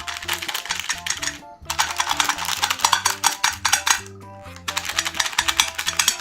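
Meat grinder crushing hard-shelled M&M candies: a dense crackling crunch in three stretches with short breaks between, over background music.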